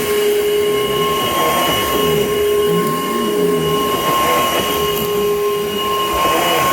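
Panasonic upright vacuum cleaner running, its motor giving a steady high whine, with the lower sound swelling and dipping in a slow back-and-forth rhythm.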